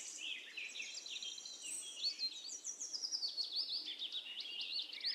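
Small birds chirping outdoors, a quiet, rapid run of short high notes that sweep up and down.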